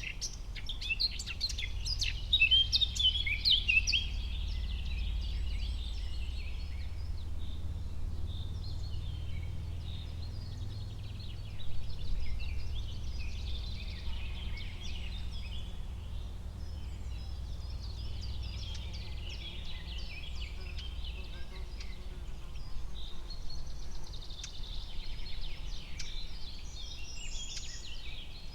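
Forest ambience: many birds chirping and singing, with busy high trills in the first few seconds, over a steady low rumble.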